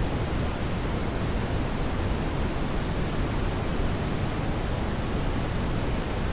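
Brown noise: a steady, even rushing hiss weighted toward the low end, with no change or events.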